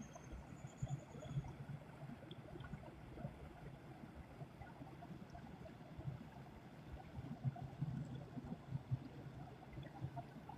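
Small creek running with a faint, uneven trickle. A short high bird chirp comes about a second in.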